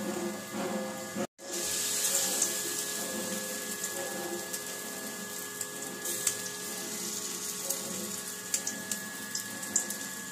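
Paneer pieces coated in puffed rice (khoi) sizzling in hot oil in an iron kadai, a steady hiss with fine crackles throughout. The sound drops out suddenly for a moment just over a second in.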